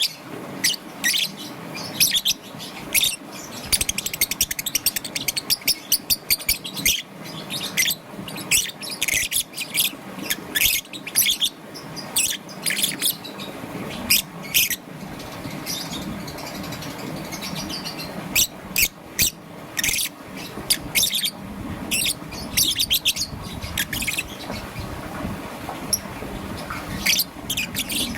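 Young peach-faced lovebird chirping: rapid runs of short, sharp, high chirps in clusters, with a lull about halfway through and another near the end, over a low steady hum.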